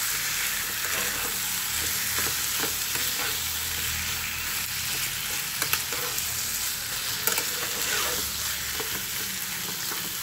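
Pieces of mutton fat sizzling as they fry in hot oil and masala in a kadhai, a steady hiss. A spatula stirs them, with scattered short scrapes and clicks against the pan.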